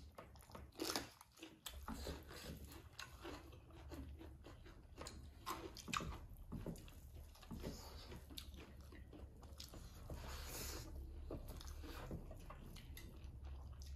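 Close-miked chewing and eating sounds of two people eating rice and pork curry by hand: irregular wet mouth clicks, soft bites and chewing.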